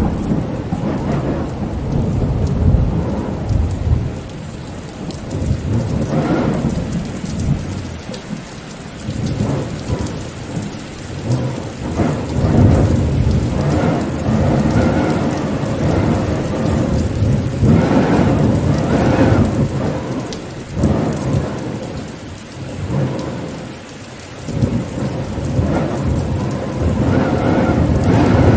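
Rainstorm: steady rain with deep, rumbling swells that rise and fall every few seconds.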